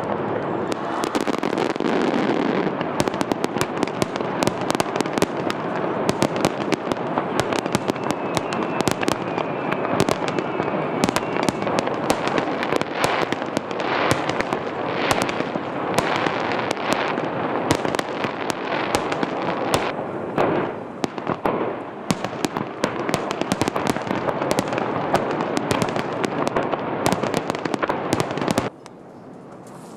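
Fireworks display: a dense barrage of aerial shells bursting in rapid succession, a steady stream of sharp bangs and cracks that drops away abruptly near the end.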